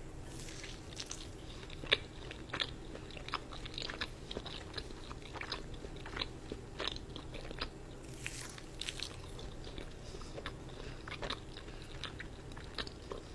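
Biting into and chewing a dark chocolate pistachio cookie: faint, scattered crunches and mouth clicks.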